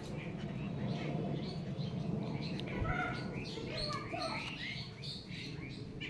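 Small birds chirping, many short, varied calls and quick falling notes overlapping, starting about a second and a half in and busiest in the middle, over a steady low background hum.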